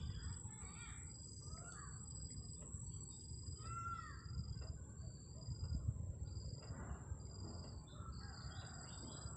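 Faint outdoor background: a few distant bird calls over a low rumble.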